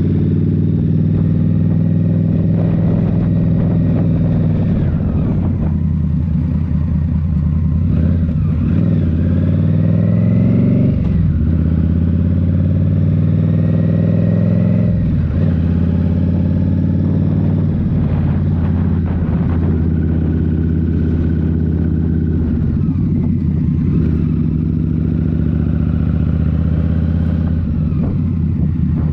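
A 2023 Indian Scout Rogue's 1133 cc V-twin, fitted with a Rinehart slip-on exhaust, running under way. Its pitch climbs and drops back several times as the bike pulls and changes speed.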